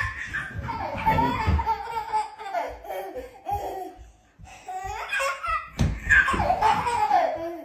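High-pitched laughter, a string of short laughs with a brief lull about four seconds in before the laughing picks up again.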